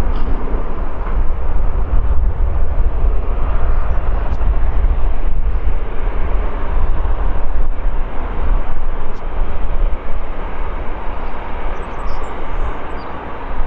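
Boeing 747-8F freighter's four GEnx-2B67 turbofans, a loud, steady jet roar with a heavy low rumble, easing slightly near the end.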